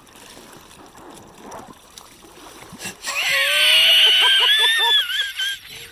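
Water splashing and sloshing around an inflatable kayak as someone struggles to get out of it. About three seconds in comes a loud, high-pitched vocal cry lasting a couple of seconds.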